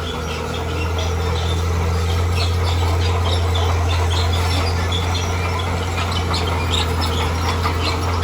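Bulldozer's heavy diesel engine running steadily under load, growing a little louder about a second in, with many short high-pitched chirps over it.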